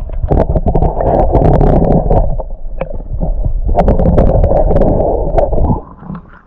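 Loud, muffled low rumble with scattered crackles on the recording device's microphone, cutting off near the end.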